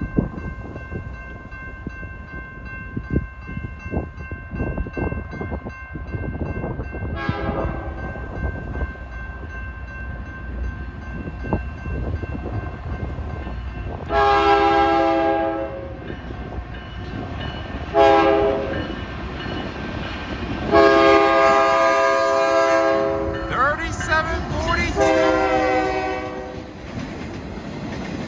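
BNSF diesel locomotive's multi-chime air horn sounding a series of long and short blasts over the steady rumble of the approaching train's engines and wheels.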